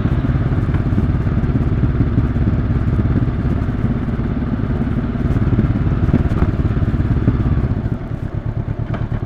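Honda CB500X's 471 cc parallel-twin engine running at low revs, then dropping to a pulsing idle about eight seconds in as the bike comes to a stop.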